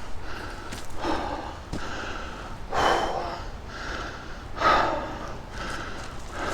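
A man breathing hard and gasping from the exertion of climbing a steep slope, in rapid repeated breaths, two of them louder about three and five seconds in.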